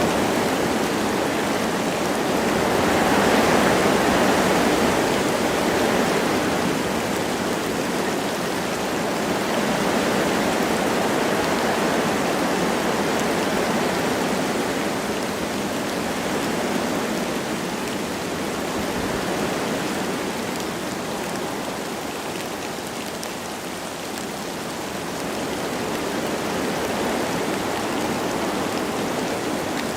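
Wind blowing through forest trees with light rain: a steady rushing noise that swells about three seconds in and then slowly eases.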